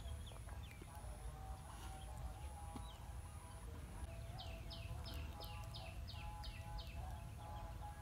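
A bird calling a run of about eight quick, falling notes in the middle, over a faint high pulsing note that repeats steadily and a low steady rumble.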